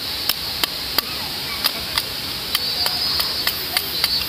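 Burning twigs crackling in a small wood-burning camp stove: sharp, irregular pops two or three a second over a steady hiss.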